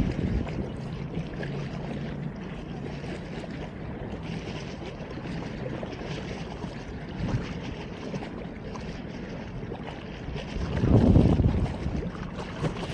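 Wind buffeting the microphone, a steady rumbling rush with a stronger gust about eleven seconds in.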